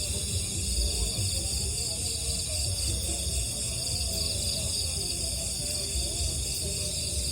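Night insects, crickets among them, chirring in a steady, dense chorus of several high-pitched bands, over a low rumble.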